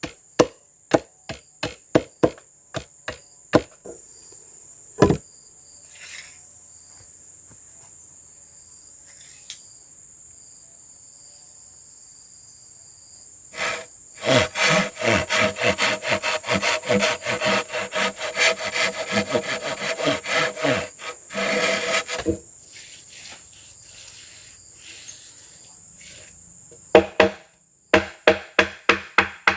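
Wood being chopped by hand, sharp knocks about three a second, over steady insect buzzing. A quieter lull, then about eight seconds of fast, rasping back-and-forth strokes like sawing wood, and the rhythmic chopping starts again near the end.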